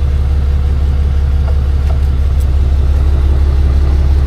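A truck engine idling steadily with a deep, even rumble, with a few faint clicks from work nearby.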